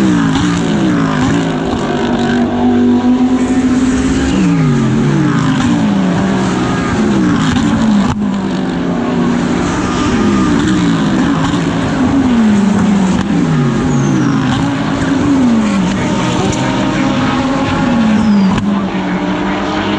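GT3 race car engine heard on board at racing speed. The revs repeatedly fall in quick steps as it downshifts for corners, then hold and climb again as it accelerates out.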